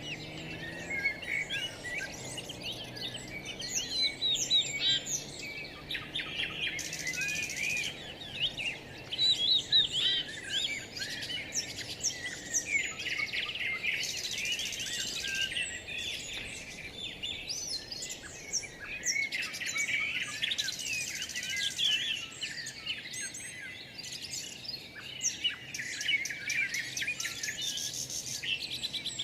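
Chorus of many songbirds singing and chirping at once, quick overlapping whistles and trills, with a faint insect buzz in places.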